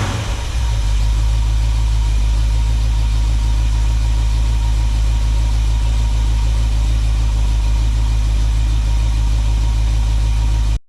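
Chevy 400 small-block V8 idling steadily on a newly fitted HEI distributor, just started after about 8 months standing, with its timing not yet set. It settles from a rev in the first half-second into an even idle. The sound cuts off suddenly near the end.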